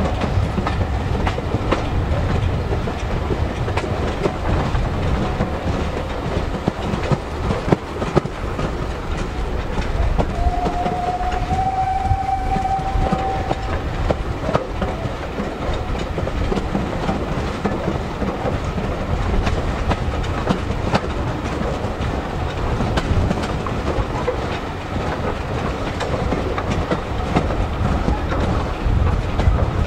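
Railway carriage running along the line behind a saddle-tank steam locomotive: a steady rumble with the clickety-clack of the wheels over the rail joints, heard from the carriage. About ten seconds in, the steam locomotive's whistle sounds once for about three seconds, on a single steady note that steps up slightly.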